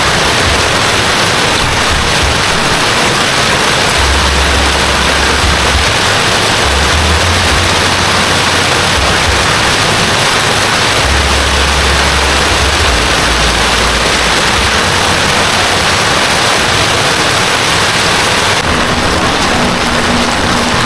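Heavy rain pouring steadily, a loud, even hiss of downpour, with low rumbling that comes and goes underneath.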